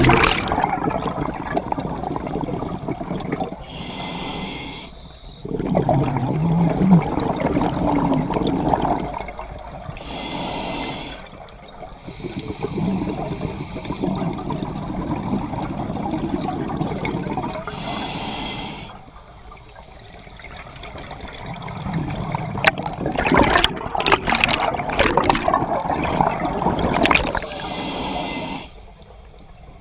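Scuba diver breathing through a regulator underwater: four hissing inhalations, each followed by a long burst of bubbling exhaled air, in a slow steady cycle.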